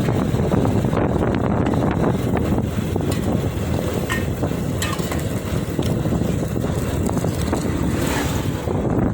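Big truck rumbling on a dusty road, a steady low noise mixed with wind buffeting the microphone, with a few sharp clicks in the middle.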